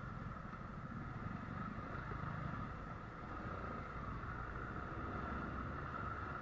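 A vehicle driving along the road: steady engine and road noise with a constant hiss, no sudden changes.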